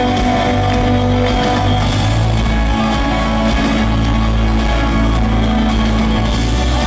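Live folk-rock band playing an instrumental passage without singing, with guitar over steady, loud low bass notes.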